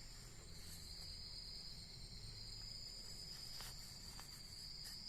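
Steady high-pitched insect trilling, with a few faint clicks.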